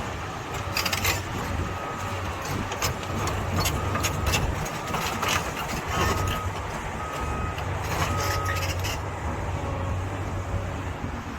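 Excavator working a trench: the diesel engine runs steadily under load while the bucket knocks and scrapes in the soil. Short high beeps come and go through the middle of the clip.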